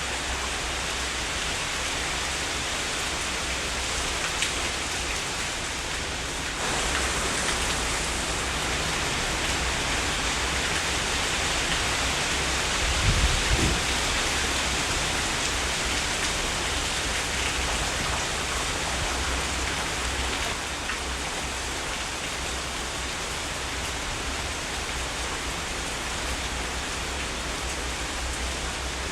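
Steady heavy rain that grows heavier about a quarter of the way in and eases back again after about two-thirds. A short, low rumble of thunder comes near the middle.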